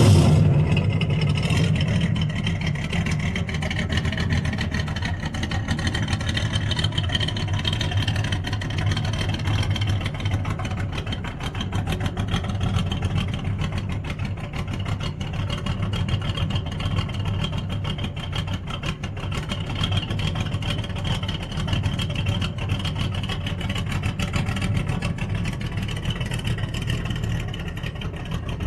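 Big-block Ford 460 V8 running steadily on a cold start, easing down in the first couple of seconds after a louder burst. It is warming up with a carburetor that has no choke, which the owner says makes it cold-natured.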